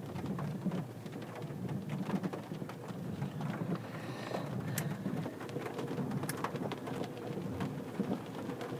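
Steady low rumble inside a stopped car's cabin, with scattered light ticks throughout.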